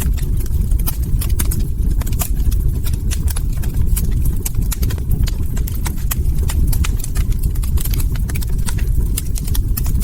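Log fire crackling: frequent irregular sharp pops and snaps over a steady low rumble of burning wood.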